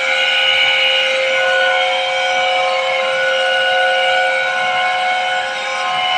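160-ton water-cooled chiller compressor running with a loud, steady whine made of several held tones, a few of them shifting slightly, presented as an abnormal compressor sound.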